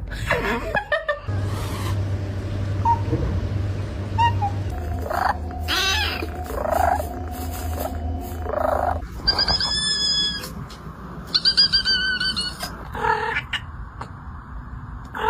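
Domestic cats making unusual, animal-like calls: scattered short cries, then in the second half two runs of high, warbling, bird-like chirps.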